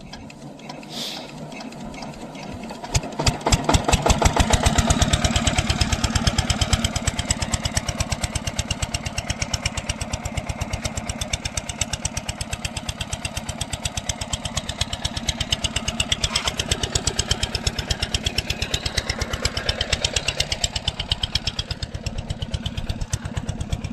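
Diesel engine of an irrigation water pump being started: it builds up over the first few seconds, catches about three seconds in, runs loudest briefly, then settles into a steady, evenly spaced beat of exhaust pulses.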